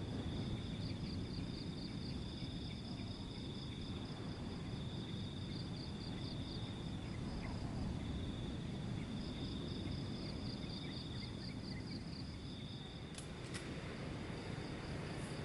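A chorus of insects trilling steadily at two high pitches, the upper one pulsing in rapid chirps, over a low steady rumble. Two sharp clicks come close together near the end.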